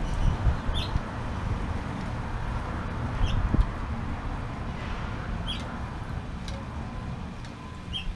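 A small bird chirping: single short, high chirps about every two and a half seconds, four in all, over a steady low rumble.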